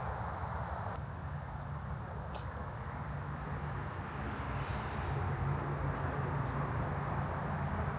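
Steady chorus of insects such as crickets: a high-pitched hiss with one thin, steady trill that stops near the end, over a low rumble.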